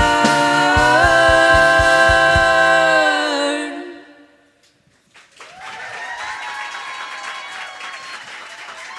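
Several voices hold the song's final chord in close harmony over a low steady beat, and the chord fades out about three and a half seconds in. After a short hush, audience applause with some cheering begins and carries on.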